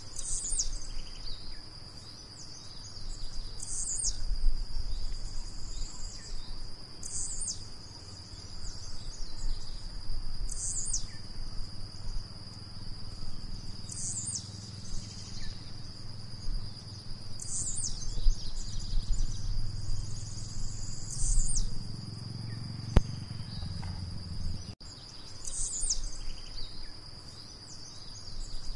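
Blue-black grassquit repeating a short, high song phrase about every three to four seconds, eight or nine times. A steady high insect drone runs beneath it.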